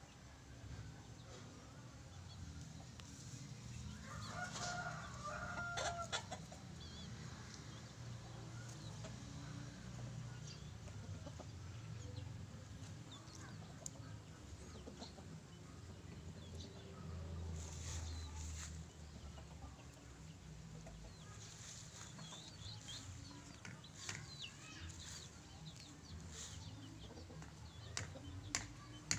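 Faint, short animal calls, one pitched call about five seconds in, over a steady low rumble.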